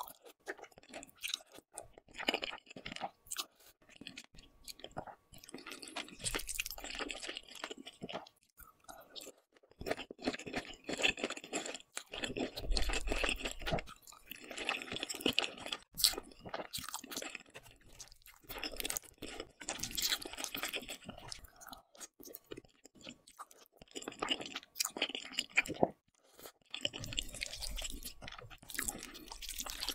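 Close-miked chewing of saucy noodles, sausages and boiled egg, with crunchy bites and wet mouth clicks, in bursts a few seconds long separated by short pauses.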